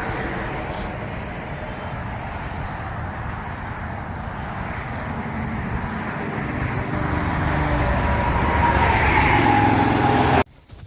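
Car engine running and revving with tyre and road noise, slowly getting louder, then cut off abruptly near the end.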